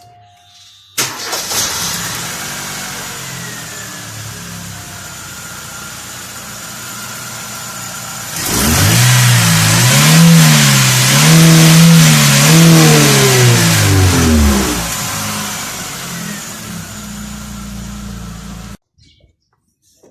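2005 Chevrolet Aveo engine starting about a second in and idling, then revved in several blips for about six seconds before settling back to idle, and stopping abruptly near the end. The owner puts the car's check engine light down to faulty throttle position, MAF and O2 sensors.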